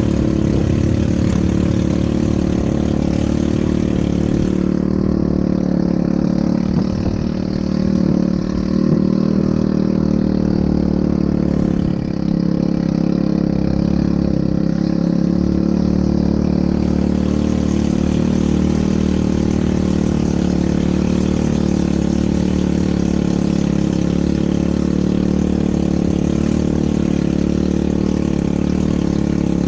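ATV engine running steadily at a fairly constant speed.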